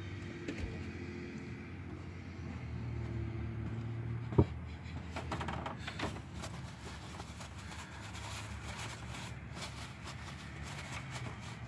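A car engine idling with a steady low hum. A single sharp knock comes about four seconds in, followed by light clicks from hands working in the engine bay.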